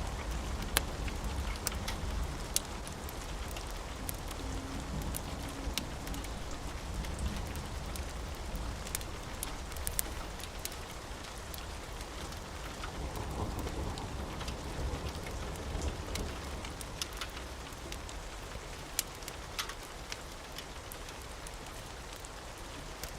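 Steady rain with a low rumble of thunder underneath, and scattered sharp crackles and pops from a fireplace.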